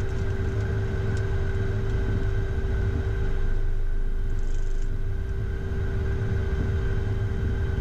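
Steady cockpit noise of a Beechcraft Premier I jet on the ground: a constant low rumble with a steady hum. It stays even throughout.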